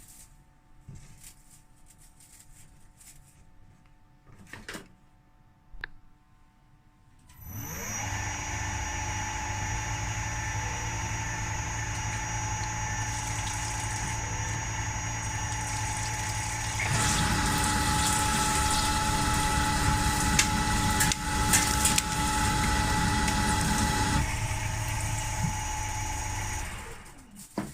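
A CNC milling machine's electric spindle spins up with a steady high whine about a quarter of the way in. It runs, then gets louder and rougher for several seconds while cutting into the workpiece, drops back to a plain whine, and winds down just before the end. A few faint clicks come before it starts.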